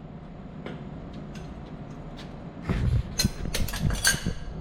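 Steady mechanical hum. About two and a half seconds in, a rapid series of sharp clanks and knocks starts, louder than the hum, as of tools and metal parts being handled during motor work.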